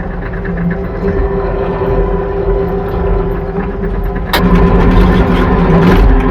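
A machine's engine running steadily. A sharp knock comes a little over four seconds in, and after it the engine runs louder.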